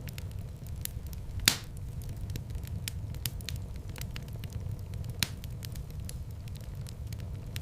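Fireplace fire crackling over a steady low rumble of flames, with many small ticks and two louder pops, about a second and a half in and again after five seconds.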